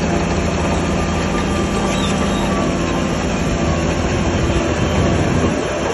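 Shantui bulldozer's diesel engine running steadily under work, with a continuous mechanical rattle and clank.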